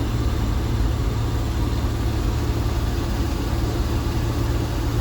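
1966 Ford F500 bucket truck's engine running steadily while the truck drives down the road.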